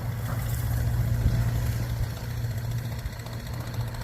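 Chevrolet pickup's Duramax diesel engine running with a steady low drone.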